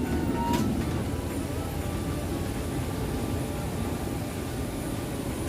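Steady low rumble of airport and aircraft noise, with a short sharp click about half a second in.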